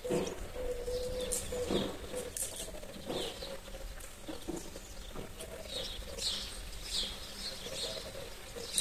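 Small birds chirping, with a few dull thumps and rustles from beetroots being pulled and handled, mostly in the first half.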